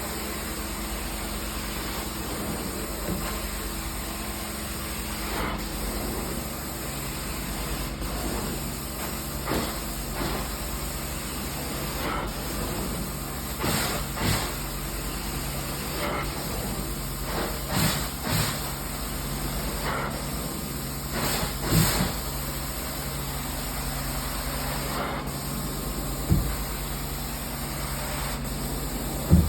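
Carpet-cleaning extraction machine running steadily with a low hum and a hiss of spray and suction, with short louder surges every few seconds.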